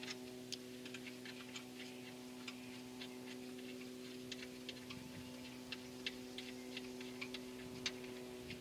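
Ratchet wrench clicking in short irregular runs as a 14 mm strut-tower nut is backed off, with a steady low hum underneath.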